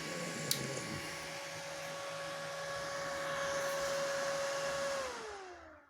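Welding inverter's cooling fan running with a steady whoosh and hum, then about five seconds in winding down with falling pitch as the machine is switched off. A brief click about half a second in.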